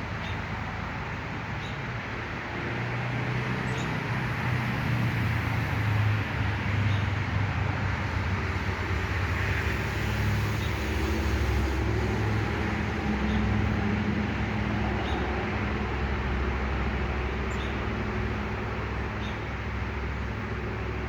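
Steady low rumble of road traffic, growing louder for several seconds in the middle as vehicles pass, with a few faint, short bird chirps over it.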